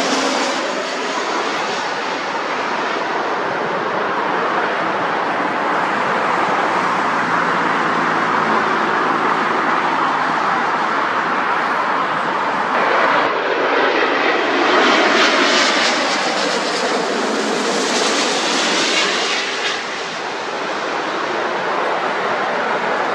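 Jet airliner's engines running loud and steady as it passes on the runway or close by, with the pitch of the rush sweeping about as it goes past, roughly halfway through, before easing a little near the end.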